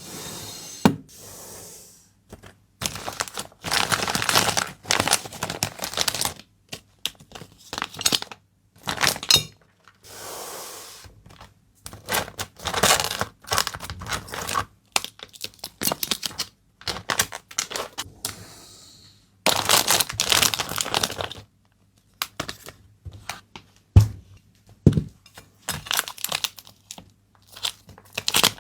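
Packaging being handled: irregular bursts of tearing and crinkling, some lasting a couple of seconds, with two sharp knocks near the end.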